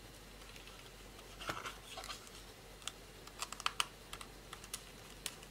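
Light clicks and taps of small laptop parts being handled and fitted, a few about a second and a half in and a quicker run of them around three and a half seconds in.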